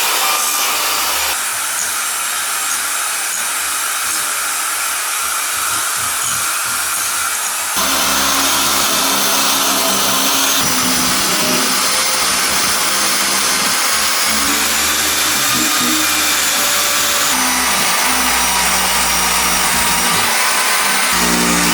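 Power tools running steadily with a loud, hissing whir. The sound changes abruptly every few seconds, where different tools or jobs cut in.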